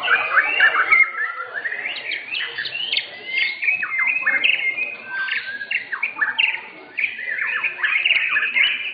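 White-rumped shamas (murai batu) singing: a dense, unbroken run of fast whistles, trills and sweeping notes, several phrases overlapping.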